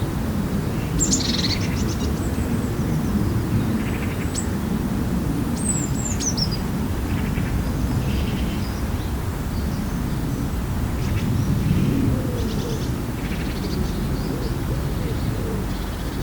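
Wild birds calling over a steady low rumble: scattered short chirps, with a falling whistle about six seconds in.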